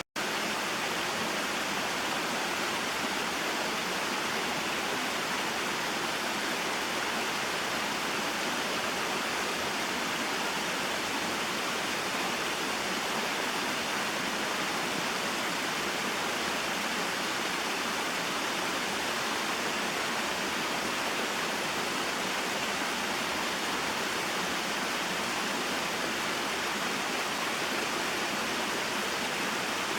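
Small waterfall and mountain stream: a steady rush of flowing water, cutting out for an instant right at the start.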